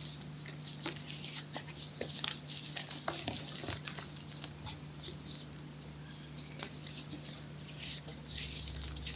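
Close-up crunching of chalk: a dense, irregular run of small sharp crunches and crackles with no steady rhythm.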